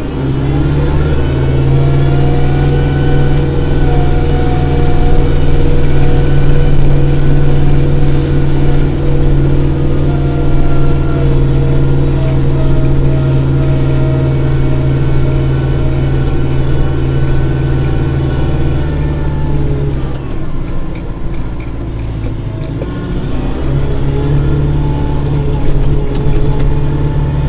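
Kubota diesel tractor engine revving up and running steadily at high speed. It sags briefly about twenty seconds in, then picks up again.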